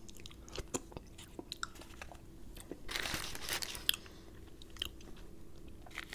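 Close-miked chewing of crispy fried chicken: soft wet mouth clicks and crunches, with a louder crackly stretch about three seconds in.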